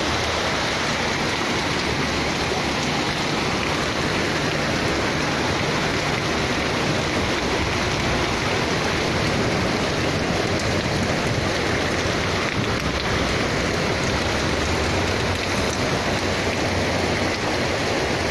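Heavy rain pouring down in a steady, dense hiss that holds even throughout.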